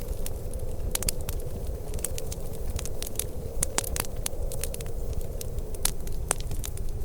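Wood fire crackling: many sharp irregular pops and snaps, several a second, over a steady low rumble.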